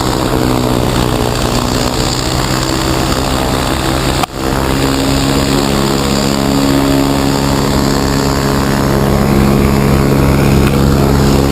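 Propeller-driven piston aircraft engine running steadily with a strong, even drone, broken by a brief sudden gap about four seconds in.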